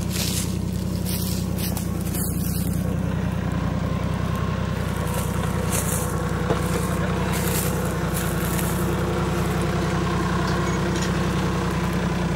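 An off-road 4x4's engine running steadily at constant revs.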